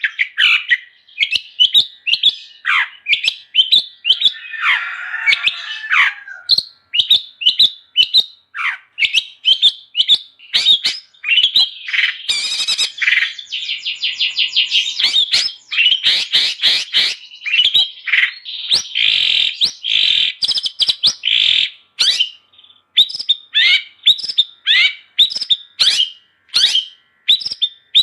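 Long-tailed shrike (cendet) singing non-stop: a fast run of sharp chirps and whistled notes, broken by harsh scratchy chatter and a quick rattling trill.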